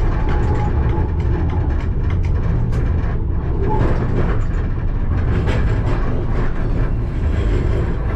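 Alstom Citadis tram running along the track, heard from the driver's cab: a steady low rumble with frequent short clicks and knocks.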